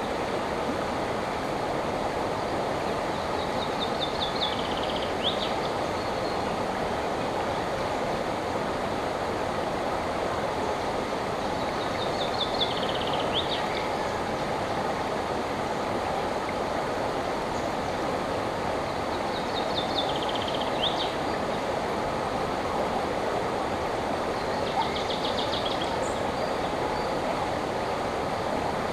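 Steady rush of flowing river water, with a songbird singing a short descending trilled phrase over it about every seven or eight seconds.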